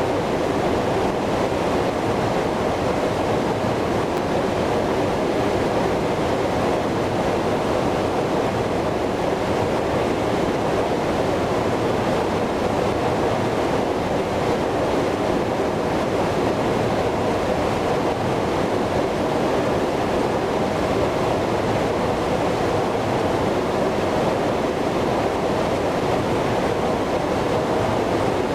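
Steady, even roar of Airbus A330-300 jet noise, strongest in the low-mid range, with no change in level or pitch.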